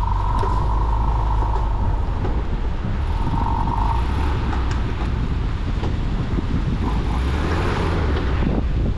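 Suzuki Vitara 4WD engine running under load as the car tries to drive out of soft beach sand with its wheels spinning: the car is bogged. Near the end there is a spray of sand from a spinning front wheel.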